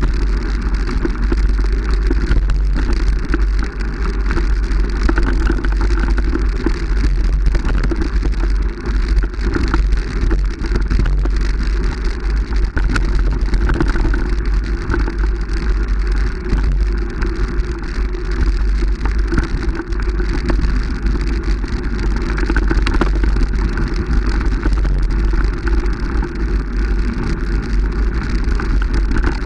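Steady, loud noise of a vehicle in motion, with heavy low wind rumble on the microphone throughout.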